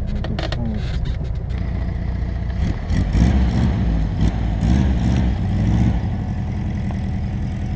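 Air-cooled flat-four boxer engine of an old Volkswagen Beetle driving, its pitch rising and falling as it is revved, loudest in the middle. There are clattering knocks from the car as it goes over the rocks.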